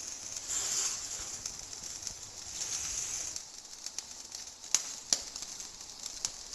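Soft hiss from the biryani pot, swelling twice, then a few sharp clicks about five seconds in.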